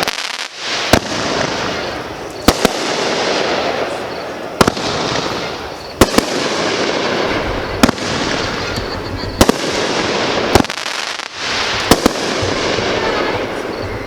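Class C consumer aerial fireworks going off. Sharp bangs come roughly every one and a half seconds, several of them in quick pairs, over a steady rushing noise between the bangs.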